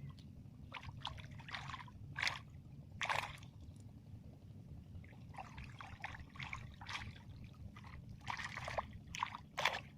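Irregular small splashes and trickles of water, with a steady low rumble underneath.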